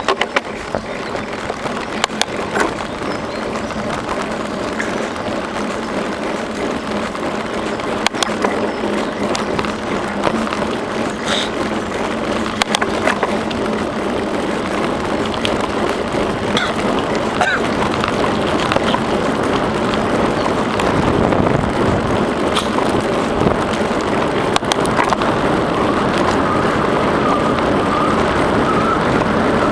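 Bicycle riding along a trail: steady tyre and wind noise with scattered clicks and rattles from bumps, growing gradually louder.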